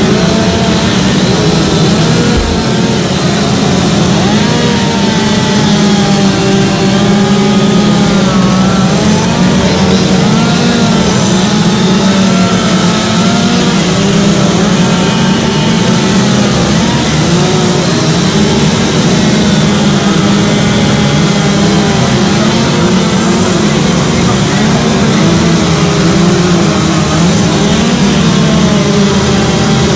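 Two-stroke chainsaws running hard and cutting into wood, their engine pitch rising and falling continuously as the load changes.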